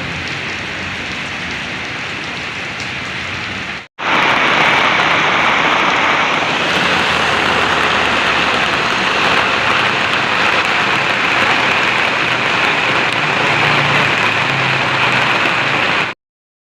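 Heavy rain falling in a steady hiss. It breaks off for a moment about four seconds in and comes back louder, then cuts off suddenly near the end.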